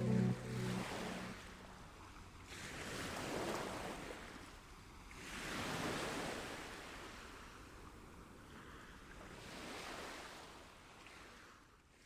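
Sea waves washing in slow swells, rising and falling three times and fading out near the end. The last notes of ambient music die away in the first second.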